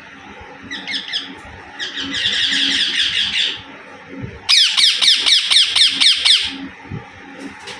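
Rose-ringed (Indian ringneck) parakeet making rapid, rattling chattering calls in three bouts, about eight notes a second in the loudest bout about halfway through, while feeding.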